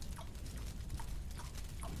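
Chewing a marshmallow with the mouth open: a run of short, wet smacking clicks, about two or three a second, over a steady low rumble.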